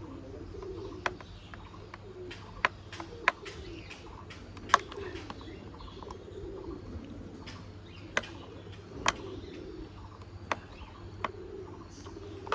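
Sharp, irregular clicks and taps of a small screwdriver working screws into a plastic toy bus body, about eight in all. Pigeons coo steadily in the background.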